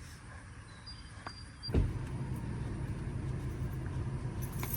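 Ford F350's 7.3-litre V8 diesel starting with a sudden catch about two seconds in, then settling into a steady low idle.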